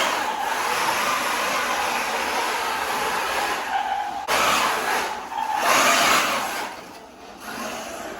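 6s brushless RC truck running hard: electric motor whine mixed with tyres skidding and churning over loose dirt. The sound cuts abruptly about four seconds in and dies away near the end.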